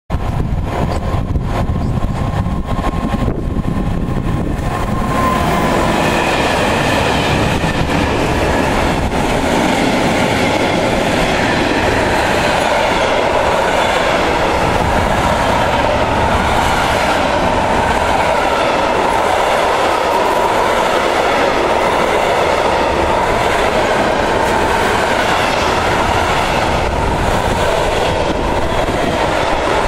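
A freight train drawn by an Rc-class electric locomotive approaches and passes close by, and its long line of covered freight wagons then goes by steadily. The wheels run continuously over the rails. The sound grows louder about five seconds in, as the train reaches the camera.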